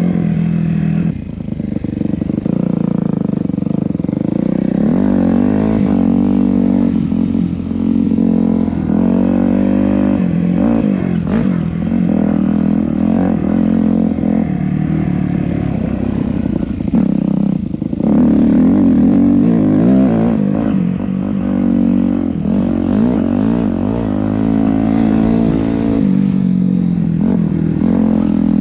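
Yamaha YZ250F's single-cylinder four-stroke engine revving up and down again and again as the dirt bike is ridden hard through the gears.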